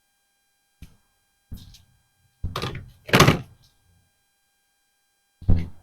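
Five short, dull thunks and knocks with gaps between them; the two loudest come about two and a half and three seconds in.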